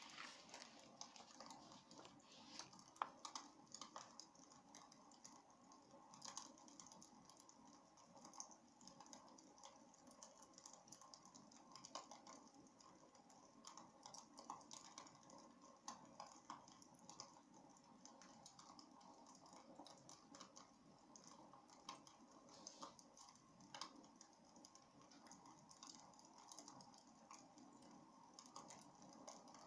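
Wood fire burning in a fireplace, crackling faintly with irregular small pops and snaps over a soft steady hiss.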